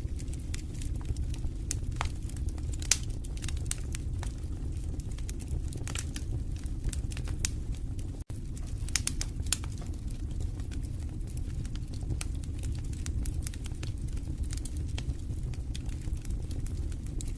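Wood fire in a fireplace crackling, with sharp irregular pops and snaps over a low steady rumble of the flames. The sound drops out for an instant a little past the middle.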